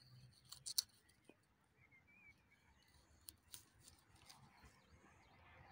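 Near silence with a few faint, sharp clicks and snaps, the loudest under a second in and two more about three and a half seconds in: mushrooms being cut and picked.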